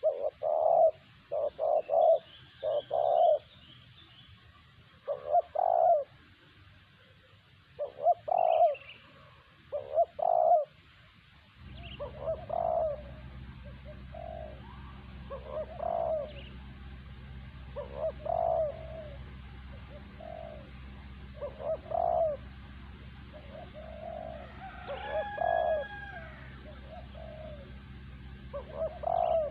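Spotted dove (terkukur) cooing, repeated phrases of low, throaty notes in groups; the calls come in quick runs at first and more spaced later. A few faint higher chirps from other birds, and a steady low rumble sets in under the calls about twelve seconds in.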